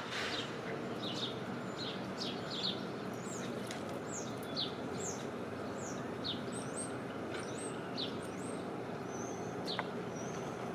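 Small birds chirping: many short, high, mostly falling chirp notes scattered through, over a steady low background hum.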